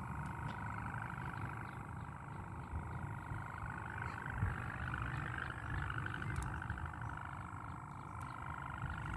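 Humming drone of a wau kite's hummer bow (busur) vibrating in the wind, its pitch wavering slowly up and down and rising a little midway, over wind rumble on the microphone.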